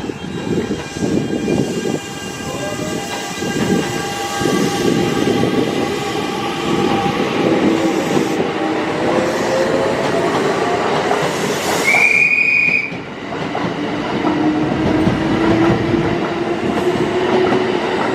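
Kintetsu electric train running along the platform: wheels clattering over rail joints and motor whine drifting in pitch. About twelve seconds in comes a short, high horn blast.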